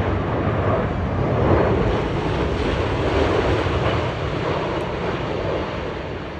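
Jet airliner flying past, its engines a steady rush that slowly fades near the end.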